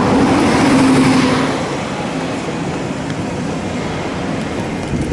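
Road traffic: a vehicle passes close, its engine hum and tyre noise peaking about a second in, then easing to a steady traffic rumble.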